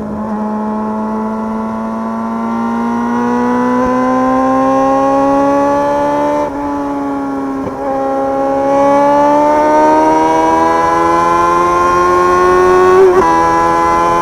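Motorcycle engine under way, its pitch rising steadily as it accelerates, dropping once about halfway through at a gear change, then rising again.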